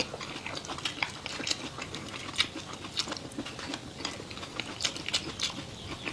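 A person chewing food close to the microphone: a run of irregular short, wet clicks and smacks.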